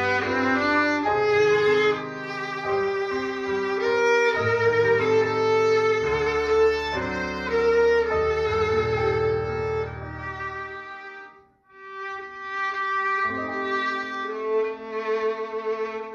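A violin playing a melody with vibrato over sustained low accompanying notes. The playing breaks off briefly about eleven seconds in, then resumes.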